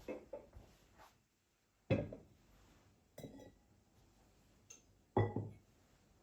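Kitchenware being handled and set down: a few light knocks, then two louder knocks and a ringing glassy clink.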